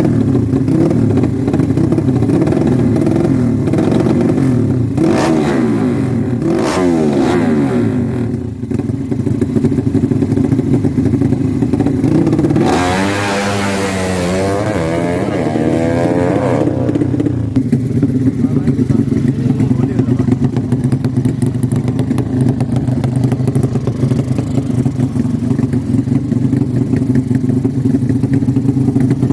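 Drag-race motorcycle engines running, with the throttle blipped up and down. About halfway through, one engine is revved hard, its pitch rising and falling for several seconds.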